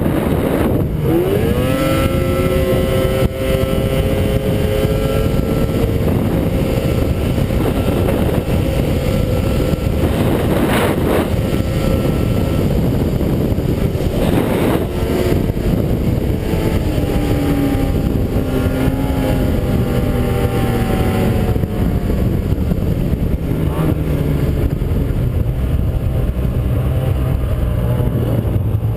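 Ski-Doo 600 two-stroke snowmobile engine running hard under throttle: the revs climb about a second in, hold high, then ease down between about 15 and 20 seconds in.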